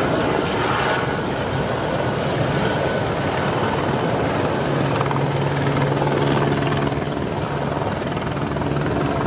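Loud, steady rushing noise with an engine hum, from a motorboat running in wind and rough water. A steady low engine tone comes in about halfway through.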